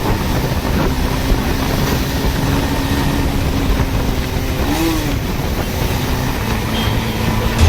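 Steady motorcycle and road traffic noise, with a faint held engine tone through the middle.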